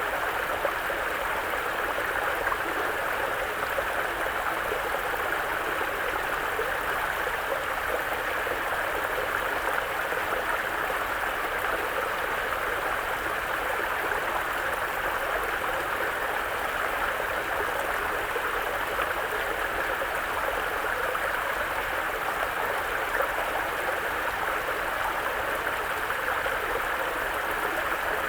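Mountain forest brook flowing steadily over rocks, a constant babbling rush of water.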